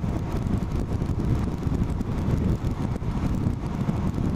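Wind buffeting the microphone over the low, steady road noise of a motorcycle being ridden.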